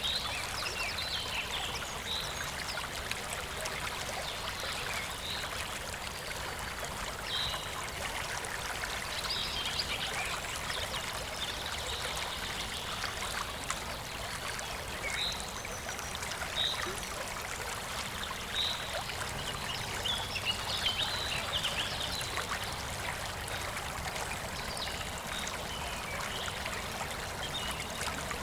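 Stream flowing steadily: an even babbling rush of water with many small, bright trickling splashes throughout.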